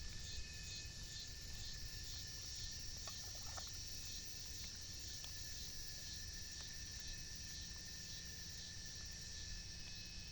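Insects chirring steadily in the open air: a constant high shrill with two thin steady whistling tones, over a low rumble.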